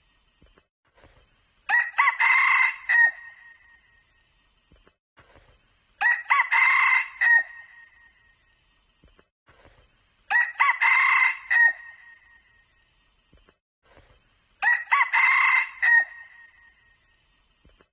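Red junglefowl cock crowing: four loud crows about four seconds apart, each lasting about a second and a half, with quiet between them.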